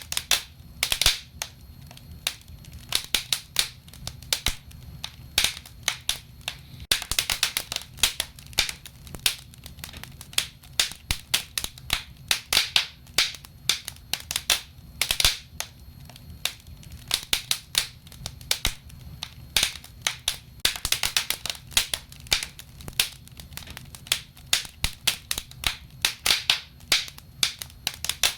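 Wood fire burning in a fireplace, with frequent irregular crackles and sharp pops over a low, steady rumble of flame.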